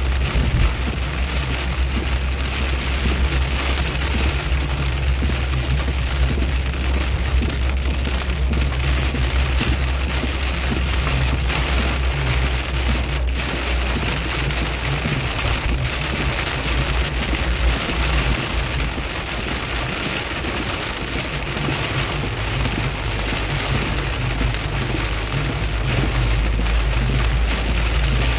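Steady rain falling on a moving car, a dense patter of drops over the low, continuous rumble of the engine and tyres.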